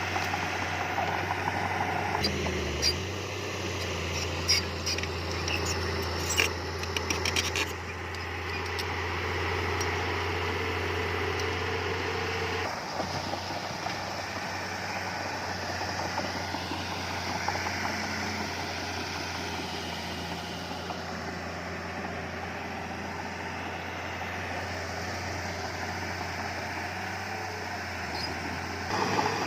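Heavy earthmoving machinery's diesel engine running steadily, with a cluster of sharp clanks and knocks in the first several seconds.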